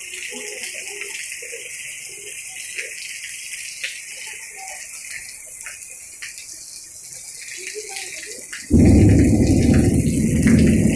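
Heavy rain falling as a steady hiss, with scattered drop ticks. About nine seconds in, a loud low rumble sets in abruptly and keeps going.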